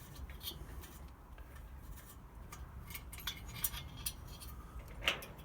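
Scattered light clicks and clinks of small metal heater parts being handled, over a faint low hum.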